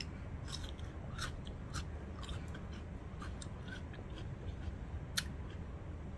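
Close-up mouth sounds of someone chewing food: irregular soft wet clicks and small crunches, with one sharper click about five seconds in, over a faint low room hum.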